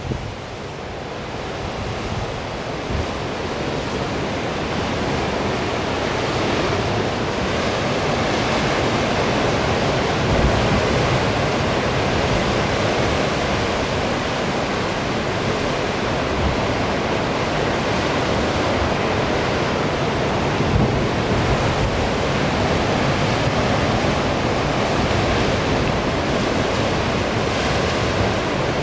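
Surf breaking on a rough, windswept sea, with strong wind gusting across the microphone: a dense, steady rush of noise that builds over the first few seconds and then holds.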